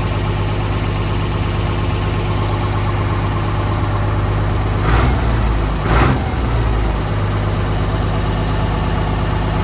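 Ford Cargo 0813 truck's diesel engine idling steadily, freshly started after standing, while it builds air pressure. Two brief louder surges come about five and six seconds in.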